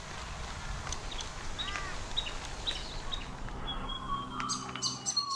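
Eastern whipbird calling near the end: a long held whistle that snaps into a sharp whip-crack, after a few seconds of other birds chirping.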